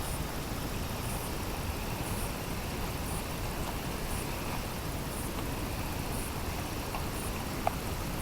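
Steady outdoor rumble and hiss, with a faint high tick about once a second.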